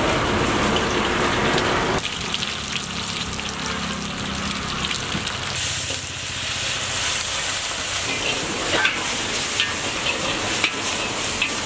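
Dried red chillies, green chillies, curry leaves and ginger-garlic paste sizzling in hot oil in a black iron wok, stirred with a metal ladle. The sizzle turns brighter and hissier about halfway through.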